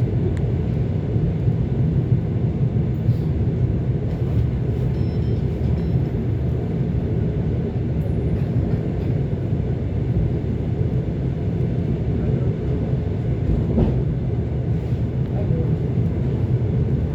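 ET2 electric multiple unit running between stations, with a steady rumble of wheels on rails and a few faint clicks.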